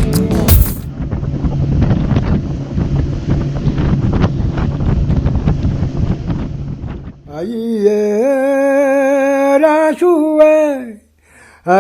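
Wind buffeting the microphone over the running noise of a boat at sea for about six seconds. Then a voice begins singing a song in Malagasy, in long held, sliding notes.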